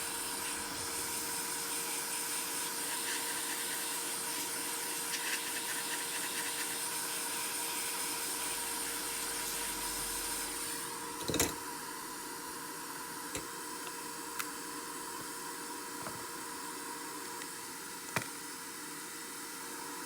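Steady hiss with a faint steady hum, growing a little quieter about eleven seconds in, broken by a few sharp clicks, the loudest about eleven seconds in.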